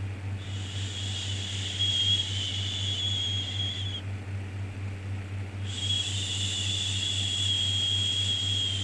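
Looped 'shhh' shushing sound for soothing a baby: two long shushes of about three and a half seconds each, with a short pause between, over a steady low hum.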